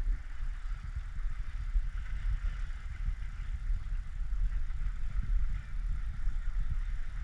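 Low, irregular rumble of wind buffeting the microphone, over a steady higher hiss.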